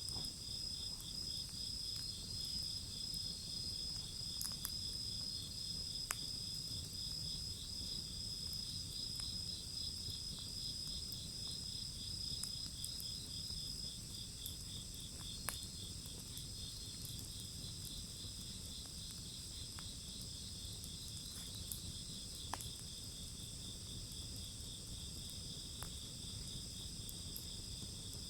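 A steady chorus of crickets chirping at several high pitches, one of them trilling in rapid pulses. A wood fire crackles underneath, with a few sharp pops.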